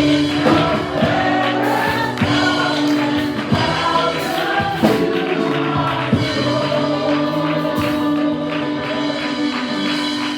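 Gospel worship music: a choir and congregation singing a hymn over a band, with a steady beat.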